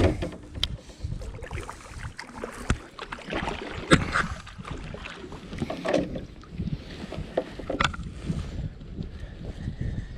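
Sounds of someone moving about in a kayak: gusty wind rumble on the microphone, with scattered knocks and a few short splashy rustles.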